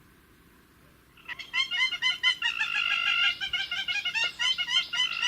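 A bird calling in a rapid run of short, harsh, repeated notes that starts suddenly about a second in after near silence.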